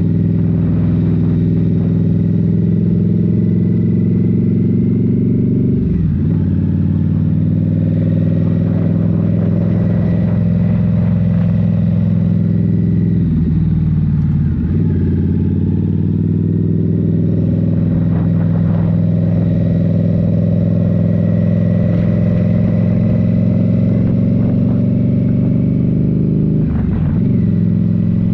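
Indian Scout Rogue's 69 cu in liquid-cooled V-twin, breathing through a Rinehart 3.5" slip-on exhaust, running steadily under way. The engine note dips briefly three times, about six seconds in, midway and near the end.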